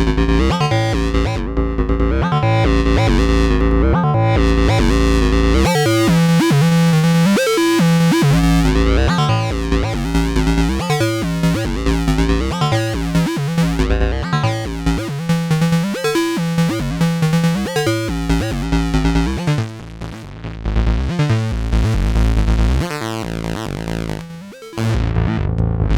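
Electronic music played on synthesizers, a Behringer Neutron analog synth and a Donner B1 bass synth, running a sequenced pattern of repeating notes over a heavy bass line. The sound thins out and drops in level briefly a few times near the end.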